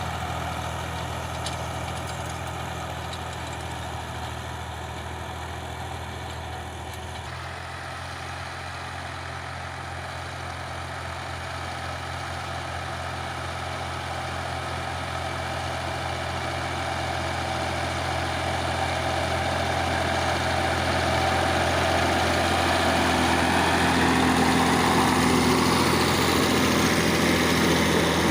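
Power tiller's single-cylinder diesel engine running steadily at idle. Its sound grows louder over the second half.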